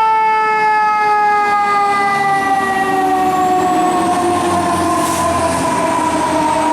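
Fire engine siren wailing: one long tone sliding slowly downward, then climbing sharply again at the very end.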